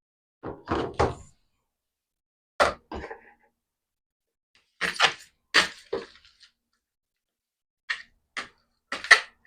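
Ice cube trays and utensils being handled and set down on a kitchen counter: about a dozen short knocks and clatters in scattered groups.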